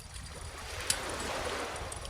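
A calm ocean wave washing in, a soft hiss that swells and then eases, with one sharp crackle from a wood bonfire about a second in, over a low steady rumble.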